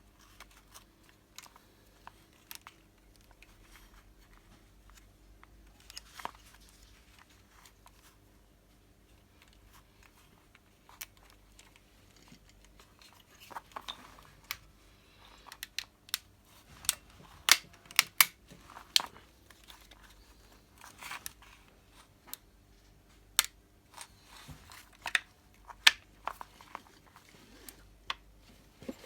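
Scattered sharp clicks and taps of hands working on a car window regulator's parts, sparse at first and coming thick and fast from about halfway through.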